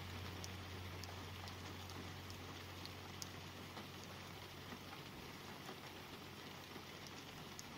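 Light rain falling on a car, heard from inside through the glass: a faint steady hiss with scattered ticks of single drops. A low hum of a passing vehicle fades away over the first few seconds.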